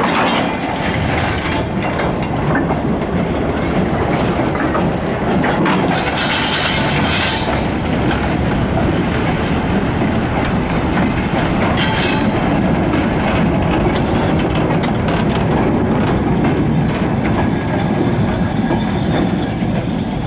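Goods train of wagons rolling steadily along the track, wheels clicking over the rail joints. A brief higher hiss comes about six seconds in and again about twelve seconds in.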